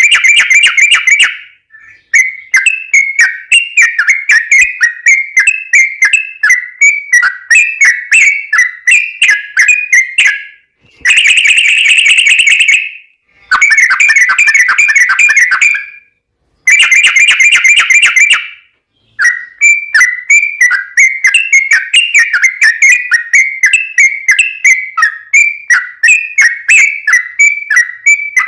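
Yellow-vented bulbul (trucukan) singing a long, rapid, rolling run of bubbly chirps. It is loud and comes in bouts of a few seconds up to eight or so, broken by short gaps of about half a second.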